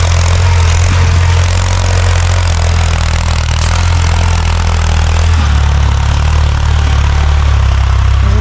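Farm tractor engine running steadily while plowing, a deep continuous drone with an even hiss over it; the engine note shifts slightly about five seconds in.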